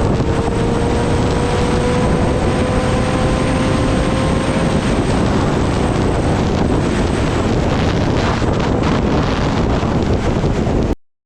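Heavy wind rush on the microphone of a Kawasaki Ninja ZX-10R at speed, with the inline-four engine's drone slowly rising in pitch underneath. The sound cuts off suddenly near the end.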